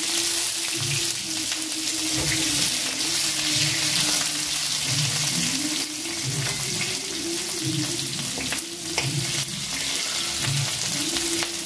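Pointed gourd (potol) pieces sizzling steadily as they fry in hot oil in a steel wok. A spatula stirs them, scraping the pan now and then.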